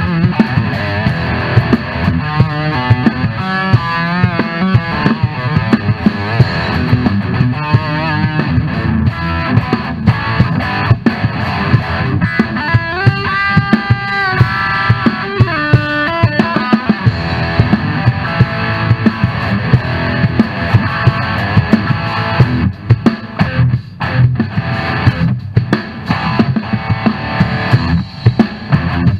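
Hard rock instrumental: an electric guitar solo over a drum kit, with wavering sustained lead notes about halfway through.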